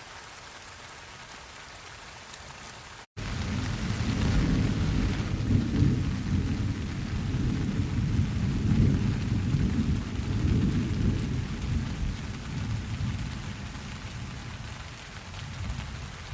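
Steady rain falling. About three seconds in the sound drops out for an instant, then a long low thunder rumble rolls in over the rain, loudest in the middle and slowly fading near the end.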